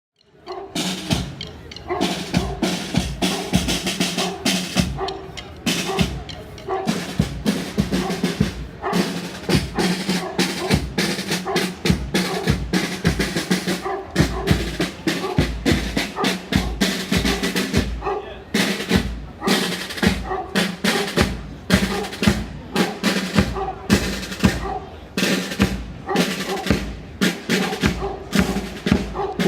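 Marching band playing, led by snare drum rolls and bass drum beats, with steady sustained tones underneath.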